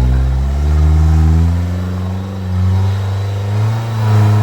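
Off-road vehicle engine revving under load, its pitch climbing over the first second and a half, then holding high.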